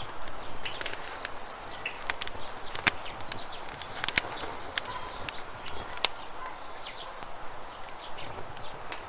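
Campfire crackling, with irregular sharp pops from the burning wood, the strongest about three and four seconds in. Beneath it runs the steady rush of river water, with a few faint bird chirps.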